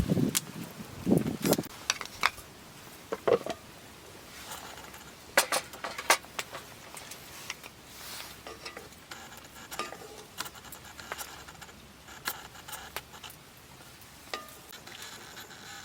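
Irregular clinks and knocks of cooking utensils and dishes, with a few duller thuds in the first couple of seconds.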